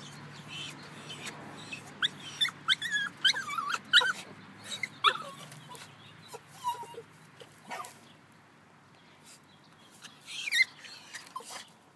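Puppy giving short, high-pitched whining cries, many in quick succession, then a few more near the end.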